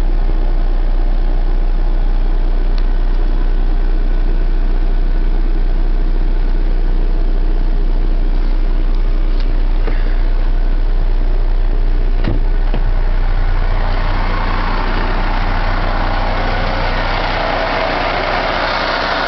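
International truck's engine idling with a steady low hum. About two-thirds of the way through, a broad rushing noise rises over it.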